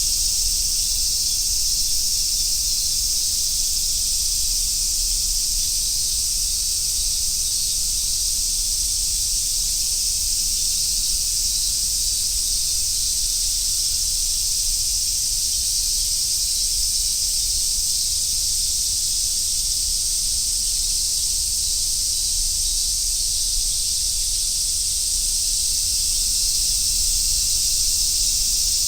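A chorus of Japanese summer cicadas, such as large brown cicadas and robust cicadas, calling continuously as an even, high-pitched sizzling hiss. A faint low rumble runs underneath.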